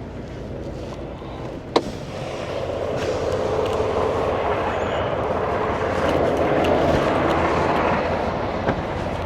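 Semi truck running, heard from inside the cab over a steady low hum. A sharp click comes a little under two seconds in. The truck's noise then swells for several seconds before easing slightly, with another click near the end.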